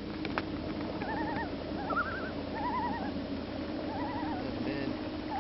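Common loon giving its tremolo call: a run of short phrases, each with a quickly wavering, quavering pitch, repeated several times over a steady low hum.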